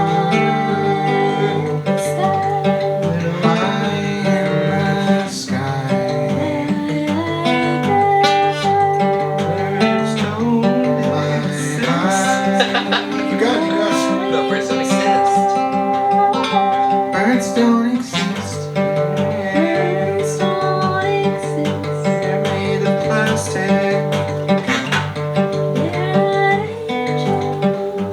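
Live band jam with guitar playing alongside other instruments.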